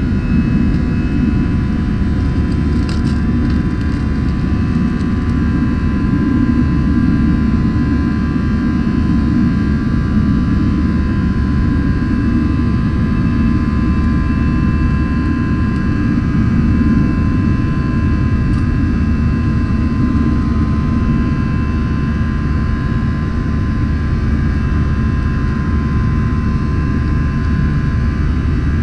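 Airbus A321-200 jet engines heard from inside the passenger cabin: a steady low roar with a few steady whining tones above it.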